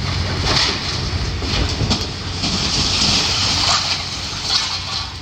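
Heavy demolition machinery at work: a steady engine hum under a continuous clatter and scrape of rubble and metal debris being dug out and moved.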